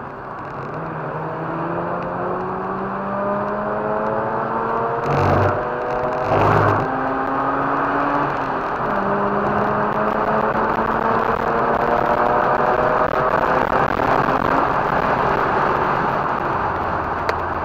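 Mazda RX-8's two-rotor rotary engine pulling hard through the gears on track, its pitch climbing steadily, dropping at an upshift a little under halfway through, then climbing again. Two brief thumps come shortly before the shift.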